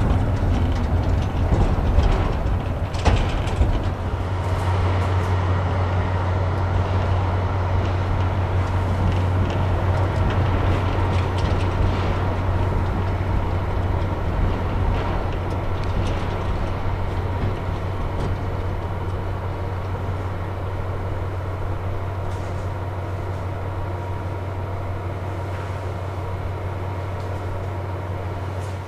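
Diesel train running: a steady low engine drone over rail noise, with a few sharp knocks in the first few seconds, slowly growing fainter.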